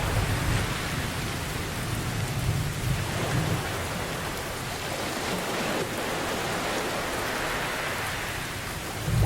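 Steady rain hissing, with low rolling rumbles of thunder swelling near the start and again about two to three seconds in.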